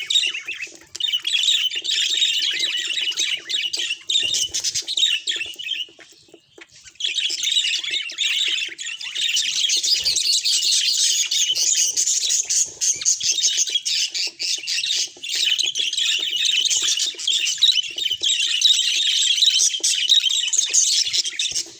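Budgerigars chattering and warbling in a dense, continuous stream of fast chirps, with a brief pause about six seconds in.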